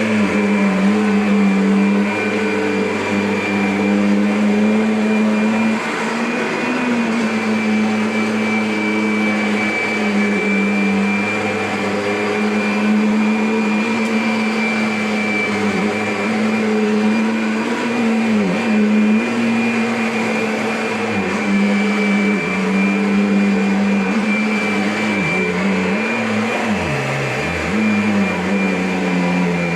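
Kirby upright vacuum cleaner running steadily with a motor hum and a high whine. Its pitch sags briefly a few times in the second half.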